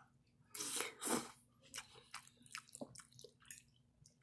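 A person chewing a mouthful of spaghetti with meat sauce: two louder wet mouth sounds about half a second and a second in, then soft, regular smacking chews.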